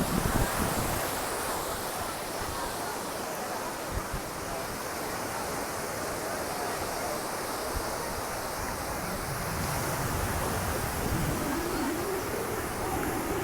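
Sea surf washing steadily onto the beach, with wind buffeting the microphone near the start.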